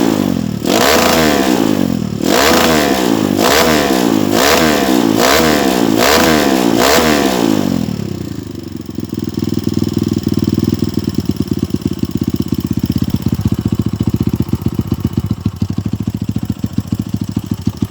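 Kawasaki KLX dirt bike's single-cylinder engine running through a GP7 Max 4.1 aftermarket exhaust, revved in quick repeated throttle blips, a little more than one a second. About eight seconds in it drops back to a steady, pulsing idle.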